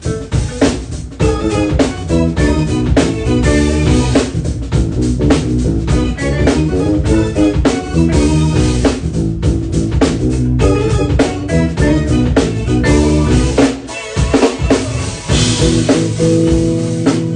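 Live band playing: drum kit with snare and bass drum driving a steady groove under bass and guitar. There is a short break about fourteen seconds in, followed by a wash of cymbals.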